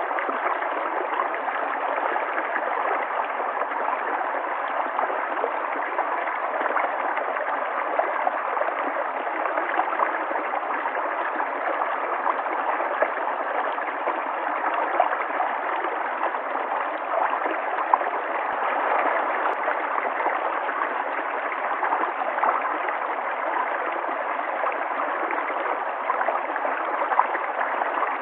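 River water flowing steadily over stones, a constant rushing with small splashes and gurgles.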